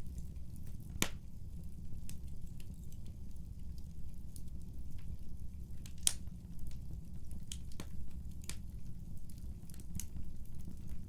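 Wood fire burning in a fireplace: a steady low rumble of the flames with scattered sharp crackles and pops of the burning wood, the loudest pops about a second in and about six seconds in.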